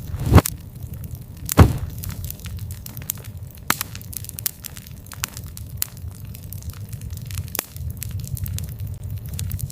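Wood campfire crackling, with scattered sharp snaps and two loud pops about half a second and a second and a half in, over a steady low rumble of the burning fire.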